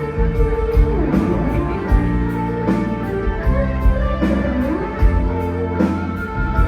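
Live bar band playing, with guitar to the fore over bass and drum kit keeping a steady beat of about one kick a second.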